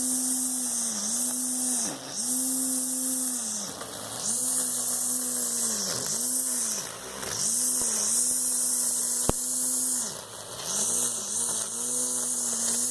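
Homemade electric string trimmer driven by a blender motor, running with a steady whine and hiss that sags in pitch and level briefly again and again as the motor is loaded.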